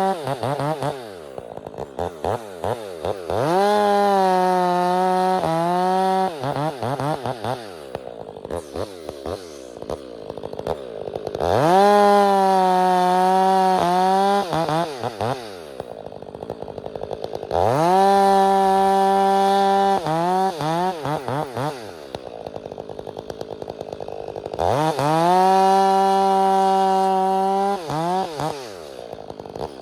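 Two-stroke chainsaw cutting firewood rounds. The engine rises to a steady full-throttle pitch for a few seconds, drops back to a choppy idle, and revs up again, about five times.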